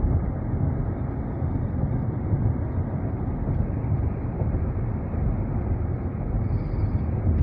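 Steady road and engine noise inside a moving car's cabin: a constant low rumble with a hiss above it, unchanging in level.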